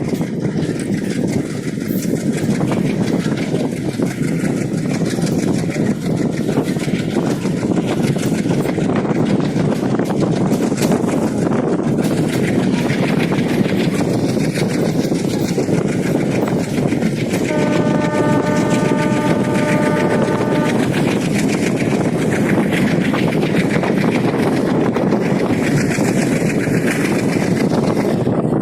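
Passenger train running on the rails with a steady rumble and rapid wheel clatter, and its horn sounding one steady note for about three seconds a little past the middle.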